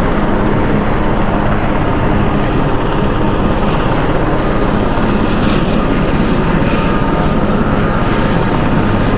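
Helicopter running with a loud, steady drone of rotor and engine.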